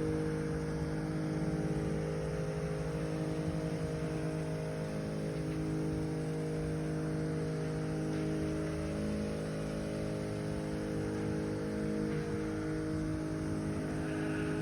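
An engine running steadily at one constant speed, with a low rumble beneath it.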